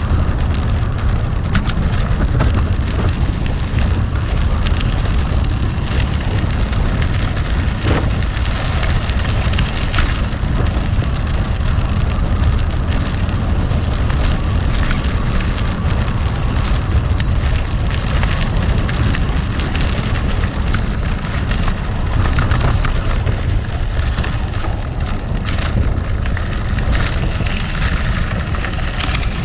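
Gravel bike rolling over rough gravel: tyres crunching on loose stones with a steady low rumble, and scattered ticks and clicks of stones and the rattling bike throughout.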